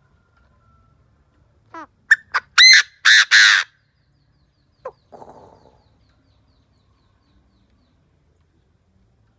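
A decoy Chinese francolin calling: a run of quick, rising, sharp notes that builds into two long, loud, harsh notes, about two seconds in. A short sharp note and a brief raspy sound follow about five seconds in.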